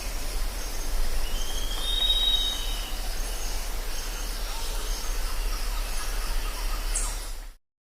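Jungle ambience: a steady background hiss with a low hum and faint high chirps repeating about once a second, and one drawn-out whistled bird call about two seconds in. The sound cuts off suddenly shortly before the end.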